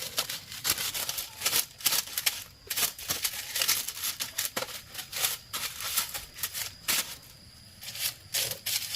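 An irregular run of sharp clicks and scraping strokes, several a second, from hand work with a tool, with a short quieter stretch near the end.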